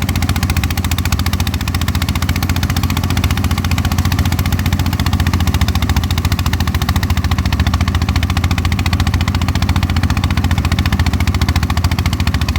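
Engine-driven rice threshing machine running steadily at working speed with a fast, even engine pulse, threshing rice as it is fed in.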